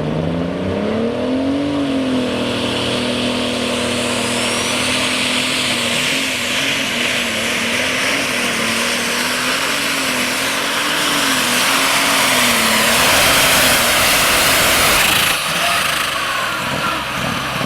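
Pulling tractor's turbocharged diesel engine revving up over the first two seconds, then held at high revs under load with its pitch wavering up and down, and a hiss that builds. The engine sound drops off sharply about fifteen seconds in.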